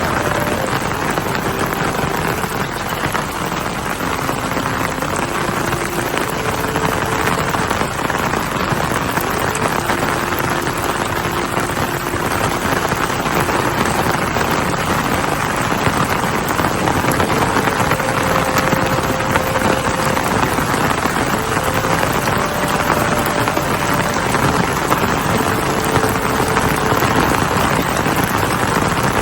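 Heavy rain falling steadily, a dense even hiss that grows slightly louder over the second half.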